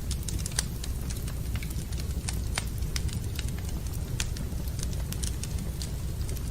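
Wood fire burning in a fireplace, crackling with irregular sharp pops, several a second, over a steady low rumble.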